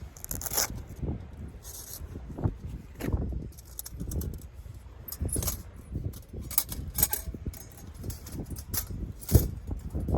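Irregular clinks and rattles of small hard objects being handled, over a low rumble of wind on the microphone.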